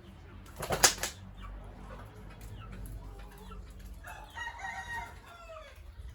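A rooster crowing once, near the end: a call of about a second and a half that falls in pitch as it ends. About a second in there is a short, loud rush of noise, the loudest thing heard.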